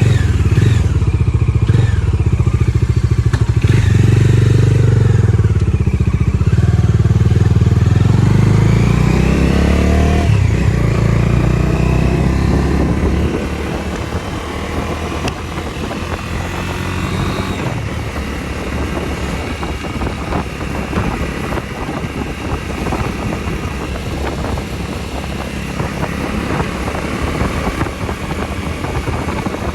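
Bajaj Dominar 250 motorcycle's single-cylinder engine running, loud for about the first thirteen seconds with a change in revs around ten seconds in. After that it is quieter under a steady rushing noise.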